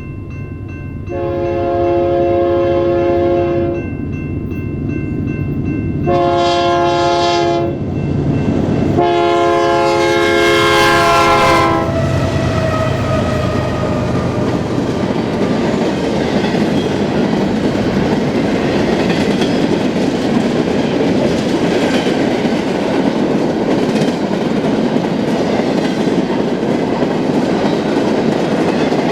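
Freight locomotive's multi-chime air horn sounding three blasts, long, shorter, long, the last one dropping in pitch as the locomotive passes. Then the steady clatter of freight cars rolling past on the rails.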